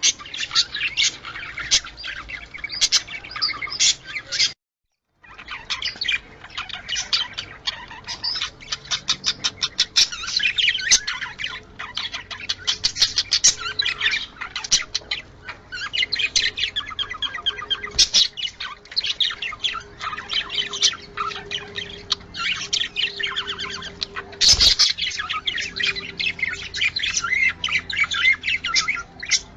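A flock of budgerigars chattering and warbling with rapid chirps and squawks, the kind of budgie chatter played to bring budgies into breeding condition. The sound drops out completely for under a second about five seconds in, and there are a couple of sharp clicks later on.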